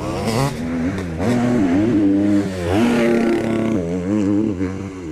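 Dirt bike engine revving hard, its pitch climbing and dropping again and again as the throttle is worked.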